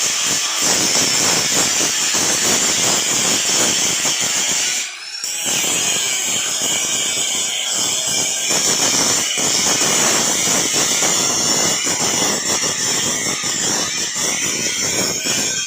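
A power tool running steadily with a high-pitched whine, with a short break about five seconds in.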